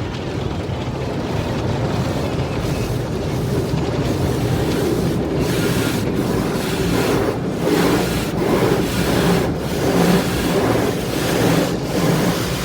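Automatic car wash spraying and scrubbing the car, heard from inside the cabin: a dense steady rush of water, which swells and fades rhythmically in the second half.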